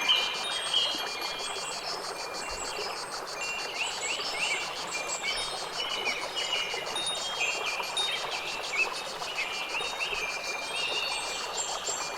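Nature ambience: short, high, ringing chime-like notes and curving bird-like calls over a steady hiss, with a fast, even ticking high above.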